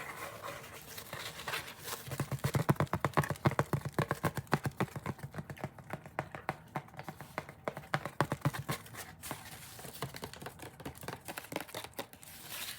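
Rapid ASMR tapping and scratching on the 'Subby sandwich' trigger object: a fast run of quick, crisp taps, several to about ten a second, each with a dull low thud beneath it, easing off somewhat after about eight seconds.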